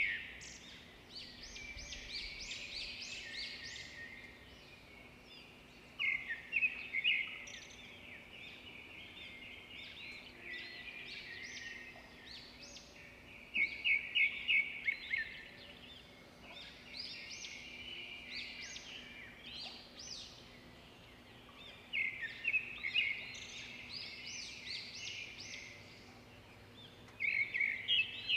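A songbird singing in repeated phrases of quick, high chirps and trills, a new phrase every few seconds, over a faint steady hum.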